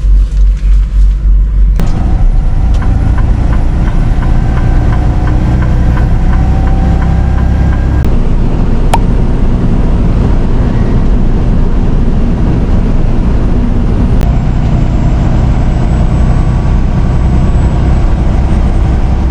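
Semi truck's diesel engine running, a heavy steady rumble that throbs evenly for about the first two seconds, then changes abruptly to a denser, steadier drone, with another sudden change around eight seconds in.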